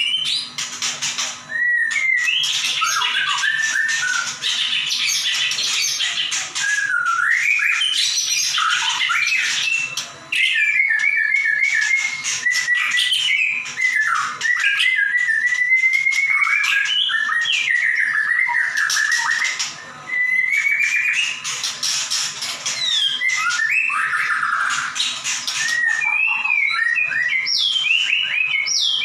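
White-rumped shama (murai batu) in full, nonstop song: rapid whistled phrases that slide up and down, broken by harsh, rasping high bursts.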